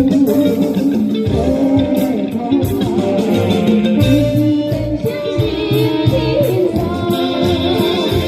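Band music led by guitar, with bass and a steady beat.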